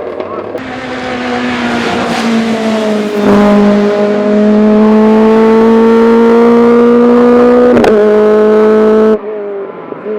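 Hillclimb race car engine at high revs, growing louder as it approaches, then holding one loud, nearly steady note that creeps slightly upward in pitch. The note breaks briefly near eight seconds and cuts off suddenly about nine seconds in.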